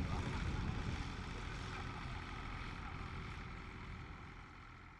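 Outdoor tractor-show ambience with a steady engine rumble, fading out steadily.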